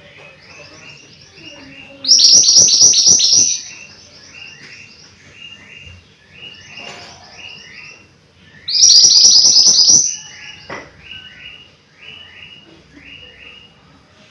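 Mantenan gunung songbird singing: a run of short, repeated chirps, about three a second, broken twice by a loud, rapid, higher trilled phrase about a second and a half long.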